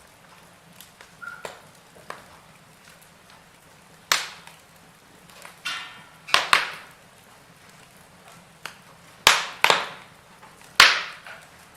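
Burning logs crackling in a fireplace: small ticks, then from about four seconds in a handful of loud, sharp pops that each die away quickly, over a faint steady hiss.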